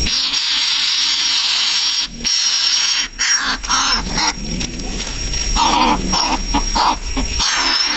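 A nestling bird's raspy, hissing calls in runs broken by short gaps.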